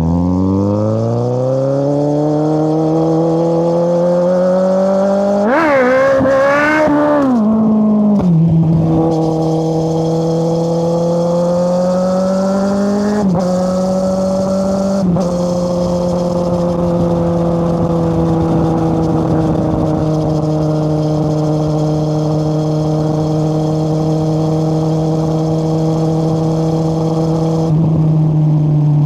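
2013 Kawasaki Z800's inline-four engine through an Akrapovic exhaust with the dB killer removed, accelerating hard with the revs climbing for about five seconds, rising and falling unevenly, then dropping at an upshift. It then holds a steady cruise, with two brief gear changes in the middle and the revs falling again near the end.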